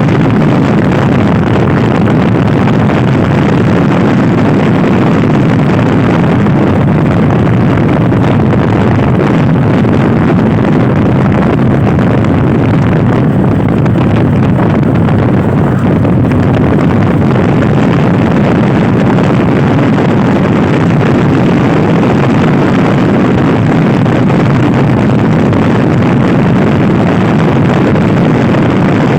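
Loud, steady wind rushing over the microphone of a Honda Scoopy-i scooter ridden at speed, with the scooter's engine running under it.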